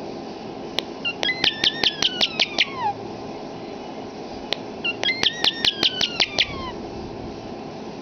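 European starling making two runs of rapid clicks, each about two seconds long, laced with whistled notes that slide downward in pitch. One run comes about a second in, the other about five seconds in.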